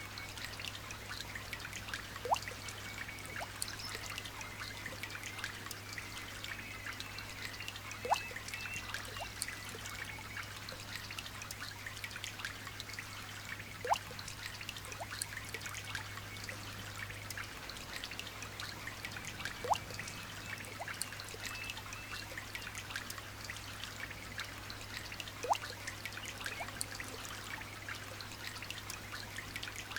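Light rain dripping and trickling steadily, a patter of many small drops. A louder single drop plinks with a short falling pitch about every six seconds.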